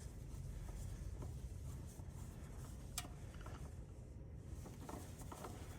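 Faint scraping and handling noise of an oil filter being turned loose by hand from underneath a car, with one sharp click about three seconds in.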